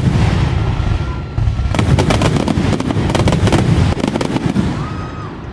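Fireworks finale barrage: rapid volleys of loud bursts and crackling over deep booms. The first volley dies away early on, a second dense volley comes about two seconds in, and it fades near the end.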